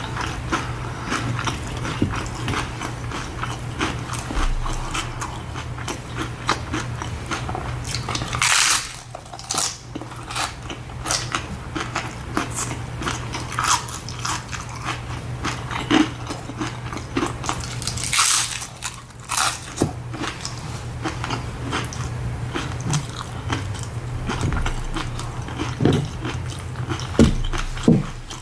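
Close-miked biting and chewing of tacos, a steady run of small crunches, with two louder crunching bites about eight and eighteen seconds in.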